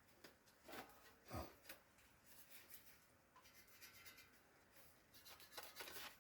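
Near silence in a workshop, with a few faint light taps and scrapes from the sheet-metal panel being handled, clustered about a second in and again near the end.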